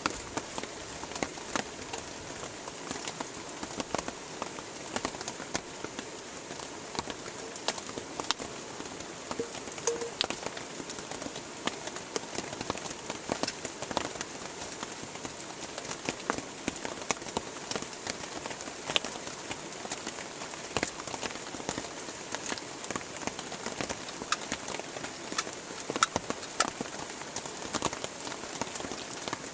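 Heavy rain falling steadily, with many separate drops ticking sharply close by.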